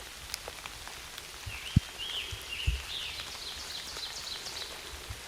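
Steady rain pattering, with a few heavy drops landing close by as dull thumps. A bird calls in a run of quick high chirping notes through the middle.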